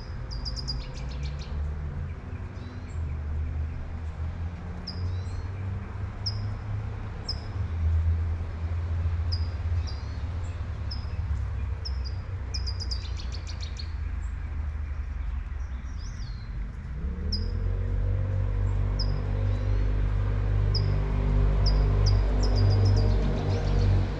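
Small songbirds chirping repeatedly in short high notes, with a few quick trills, over a steady low rumble of street traffic and light rain. About two-thirds of the way through, a passing vehicle's engine comes up, rising in pitch, and the traffic rumble grows louder.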